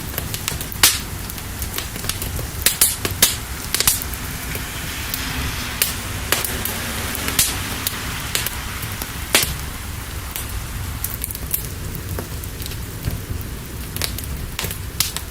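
Wood fire crackling with irregular sharp pops over a steady hiss of rain and a low rumble.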